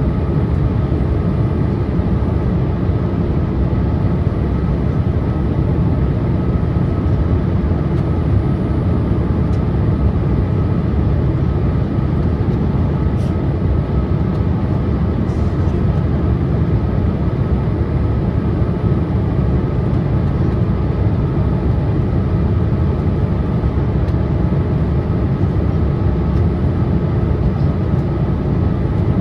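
Steady cabin noise inside a Boeing 787-8 airliner on its approach: a low, even roar of engines and airflow with a faint steady whine above it.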